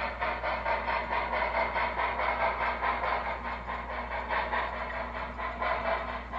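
O scale model steam locomotive running on the layout's track, with a fast, even clatter of about five strokes a second over a steady low hum.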